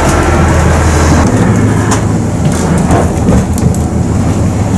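Steady low drone inside a waiting train car, stepping slightly higher in pitch about a second in, with a crackly rustling hiss over it.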